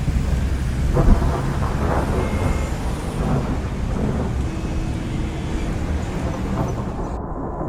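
Road traffic: vehicles running and passing on a street, with a steady low rumble and a few louder passes in the first few seconds.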